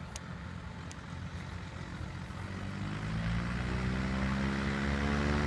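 Cessna 185 amphibian's piston engine and propeller, rising in pitch and growing steadily louder from about two seconds in, as on a takeoff run.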